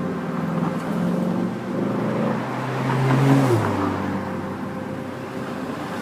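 A motor vehicle passing close by, getting louder and then its engine pitch dropping sharply as it goes past about three and a half seconds in.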